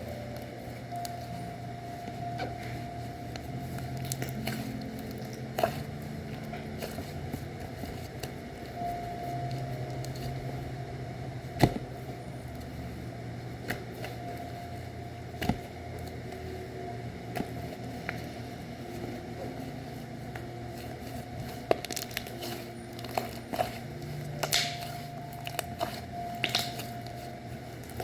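Slime being squeezed and worked by hand, giving scattered small clicks and crackles, the sharpest about halfway through, over a steady low background hum.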